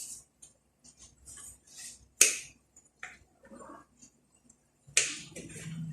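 Food frying in a pan: scattered short crackles and pops, with one sharper click a little after two seconds in and a denser burst of crackling near the end.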